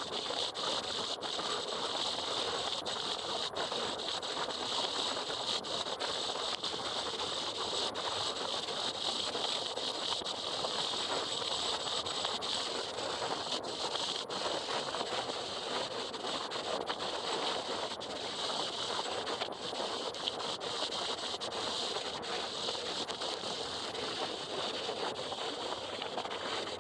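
Steady rushing wind and rain noise on a riding motorcycle's camera in the rain, with scattered sharp ticks through it.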